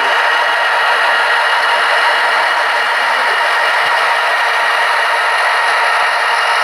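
Model train locomotives running on the layout, giving a steady, unchanging engine-like din with a light rattle.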